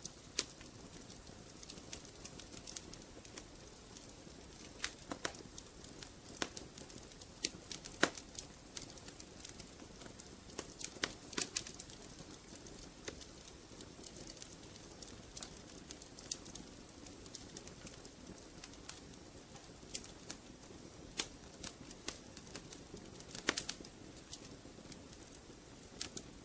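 Wood fire in a fireplace crackling, with irregular sharp pops over a low, steady hiss.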